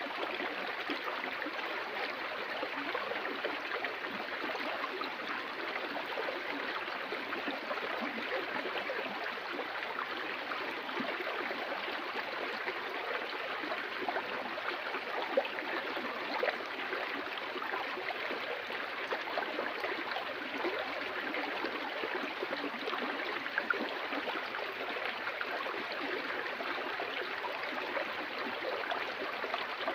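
Water flowing steadily over rocks in a stream, a continuous rushing with fine splashing and gurgling, and a few slightly louder splashes along the way.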